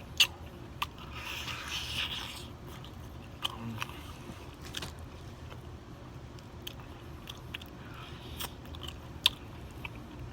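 Close-up eating sounds of crispy fried chicken: biting, crunching and chewing with sharp wet mouth smacks. The loudest smacks come just after the start and about nine seconds in, and there is a longer crunchy stretch about a second in.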